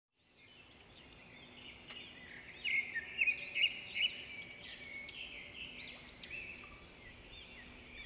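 Several birds chirping and calling over one another in short, quick, arching notes. The sound fades in at the start and grows louder from about two and a half seconds in.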